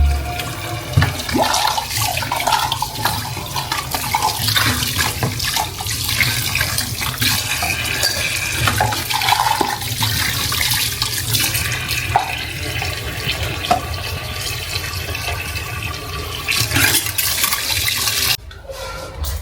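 Water running from a tap into a sink, with small knocks and clatters through it; it cuts off near the end.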